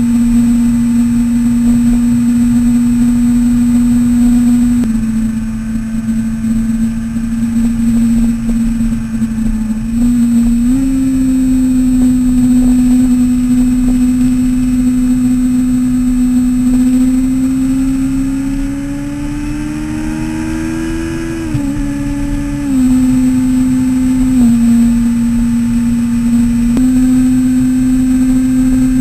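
Yamaha YZF-R6 inline-four engine running at a steady cruise with a high, even note, its pitch stepping up and down with the throttle, then climbing for a few seconds about two-thirds of the way through before dropping suddenly. Low wind rumble on the bike-mounted microphone runs underneath.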